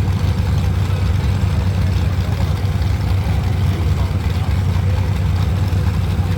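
Engines of full-size demolition derby cars running together in a loud, steady low rumble.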